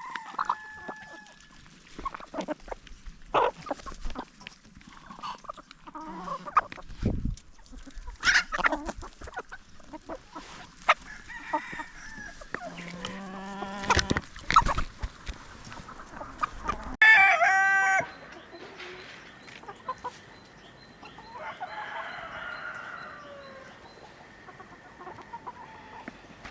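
Chickens clucking, with one loud crow-like call about seventeen seconds in, and scattered knocks and clicks throughout.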